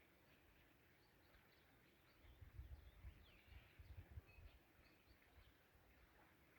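Very faint outdoor ambience: scattered bird chirps and short calls in the distance, with a few soft low gusts of light wind on the microphone between about two and four and a half seconds in.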